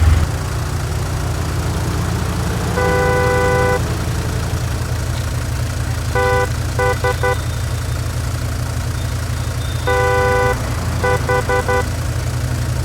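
Car horn honking over a steady low engine rumble: a long honk, then a run of short quick honks, and the same pattern again.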